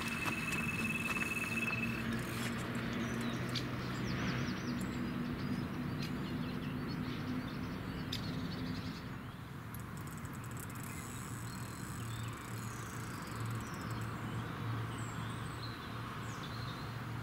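Small birds chirping on and off over a low steady hum. A steady high beep lasts about two seconds at the start.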